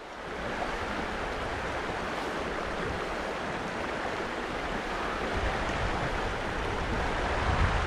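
Creek water running: a steady rushing hiss, with a low rumble growing louder in the second half.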